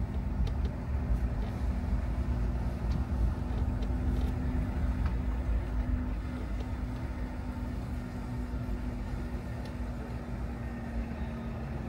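A car driving, with a steady low engine and road rumble and a held hum that eases a little about halfway through.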